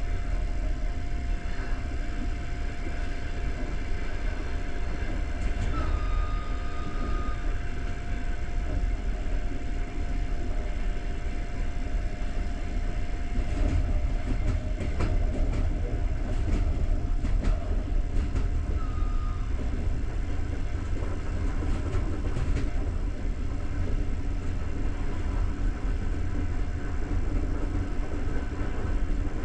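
Passenger train coach running along the track: a steady low rumble of wheels on rails, with a few sharp clicks in the middle.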